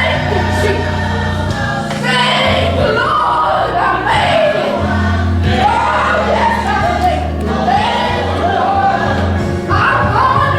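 Gospel music with a choir singing over sustained bass notes.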